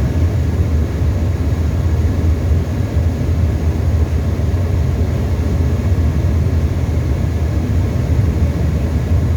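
Tecnam ultralight's engine and propeller running steadily, a loud even low drone heard inside the cockpit.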